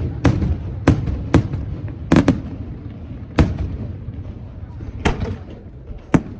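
Fireworks bursting: about eight sharp bangs at irregular intervals, two of them close together a little after two seconds in, over a low rolling rumble.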